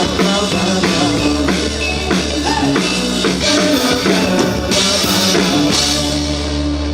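Live band playing an amplified rock song with drum kit, bass and singing, with a steady beat.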